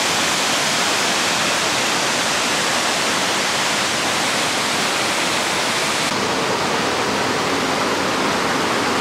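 Waterfall: white water pouring over granite into a pool, a loud, steady rush. The hiss loses a little of its brightness about six seconds in.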